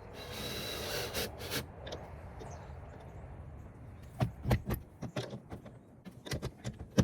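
A power drill briefly whirring as it drives a screw into the wooden door for a drop-bar latch, then a series of irregular metallic clicks and knocks as the hardware is handled.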